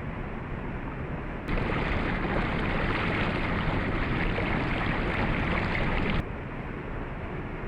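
Steady rush of a waterfall. About one and a half seconds in it abruptly turns louder and brighter, then drops back just as suddenly after about six seconds.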